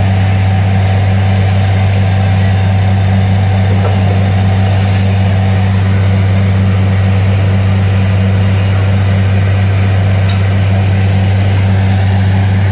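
Heavy engine of a borewell drilling rig running steadily, a loud, even low drone that does not change.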